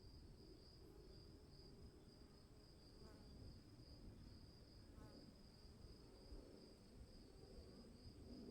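Faint forest ambience of insects trilling steadily, one continuous high trill over a low rumble, with two brief faint calls about three and five seconds in.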